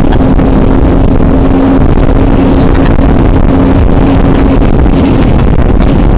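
Aprilia RS 125 two-stroke single-cylinder engine holding a steady note under heavy wind rumble on a helmet-mounted camera at riding speed. The sound is loud and unchanging.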